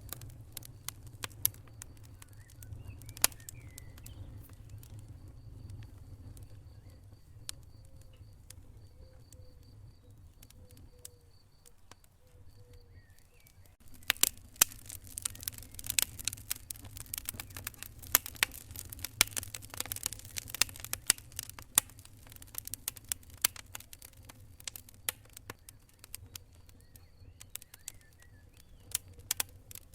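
Wood fire in a fireplace crackling, with sharp pops over a low steady rumble. The pops are scattered at first and come much thicker from about halfway through.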